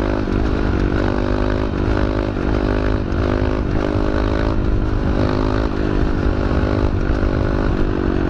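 A 125cc pit bike's single-cylinder engine running under way, its pitch rising and dropping in short repeated pulls of the throttle about once a second, over a low wind rumble.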